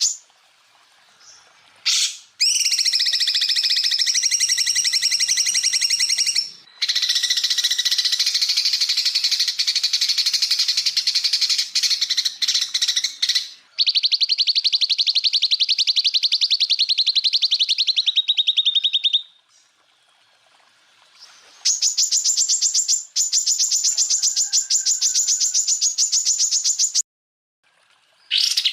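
Cucak ijo (leafbird) song: long runs of very rapid trills and rattling, buzzy phrases, high-pitched, in four long bouts broken by abrupt short gaps. One bout near the middle ends on a lower, steadier trill.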